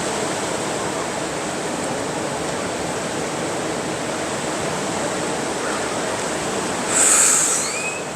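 Ocean surf washing steadily on the beach. About seven seconds in, a short, louder high-pitched hiss with a couple of brief rising chirps.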